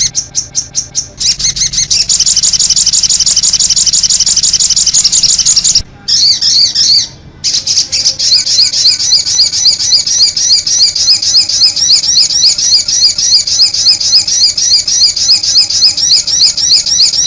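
A songbird known in Indonesia as sogon or cit anten singing loudly in high-pitched notes: first a very fast continuous trill, which breaks off briefly twice, then an even run of sharp chirps at about five a second.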